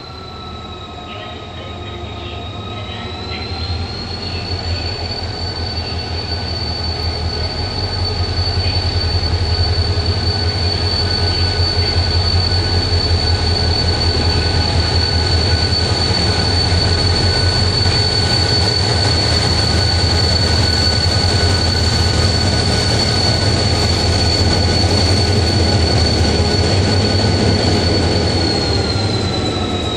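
Diesel locomotive hauling a Saemaeul passenger train rolling slowly past: a low engine throb and a steady high whine, growing louder as the locomotive draws level, then the coaches rumbling by and fading a little near the end.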